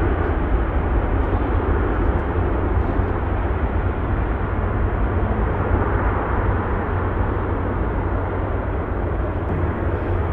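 Jet airliner engine noise as an aircraft moves along the runway: a steady, loud rush with a heavy low rumble, cutting off suddenly at the very end.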